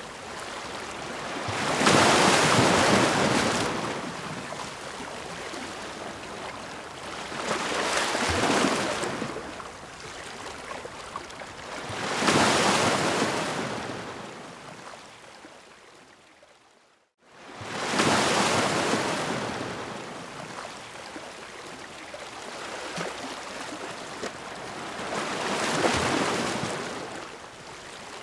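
Sea waves crashing against rocks, breaking and washing back in surges every few seconds. About two-thirds of the way through, the sound fades almost to silence, then cuts straight back in.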